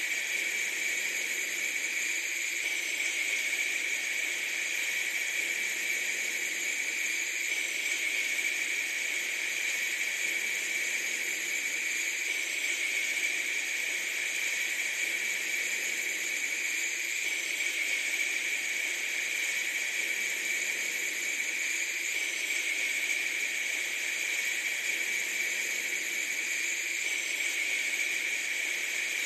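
Steady, unchanging hiss, strongest in a high band, with a faint seam about every five seconds.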